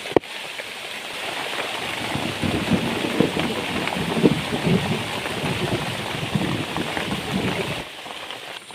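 Heavy rain falling and pattering on surfaces, growing louder after a couple of seconds and dropping off abruptly near the end. A single sharp click sounds just after the start.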